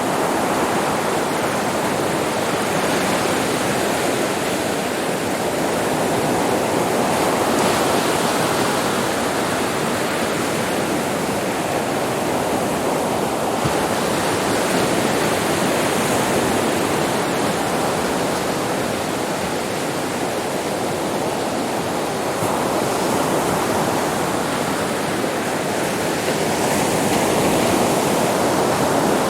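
Sea waves breaking on a beach: a steady wash of surf that swells and eases slowly every several seconds.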